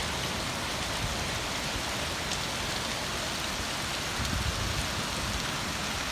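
Heavy rain from a thunderstorm pouring down with a steady hiss, with a brief low rumble about four seconds in.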